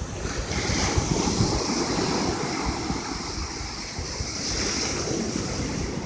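Ocean surf breaking and washing up on a sandy beach, a steady rush of waves, with wind buffeting the microphone.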